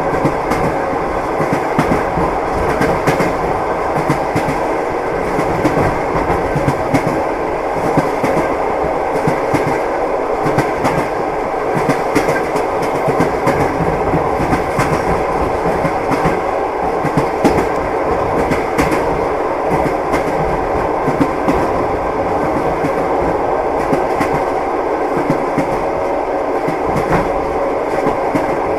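Train wheels clattering on the rails: a steady rumble of a moving railway carriage with repeated clicks and clacks from the wheels over the rail joints.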